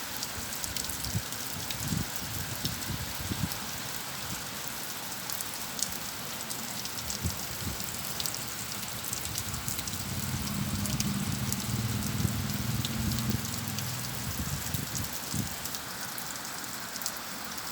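Steady rain falling, a continuous hiss with many individual drops ticking on a surface. A low rumble comes in about ten seconds in and fades a few seconds later.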